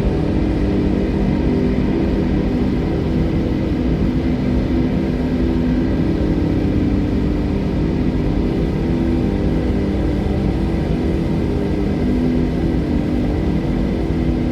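Steady wind, a continuous low rush without gusts or breaks, with a faint hum held in it.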